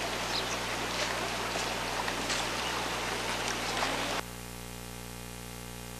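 Rain falling steadily, with scattered drop hits, cutting off abruptly about four seconds in and leaving a quieter steady hum.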